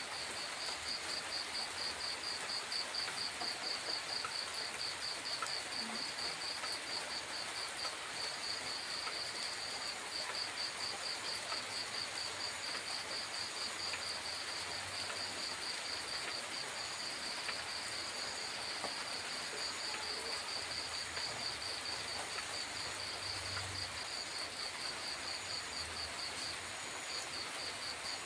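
A cricket chirping in a fast, even pulse, about five chirps a second, over the steady hiss of light rain at night. The chirping breaks off briefly twice.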